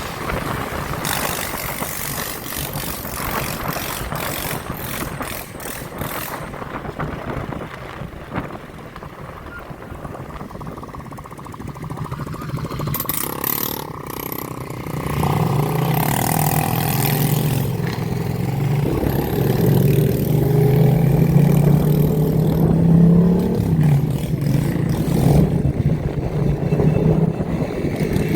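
Motorbike engines running and revving. A rushing noise fills the first half, then one engine's steady note grows louder from about halfway and rises a little in pitch near the end.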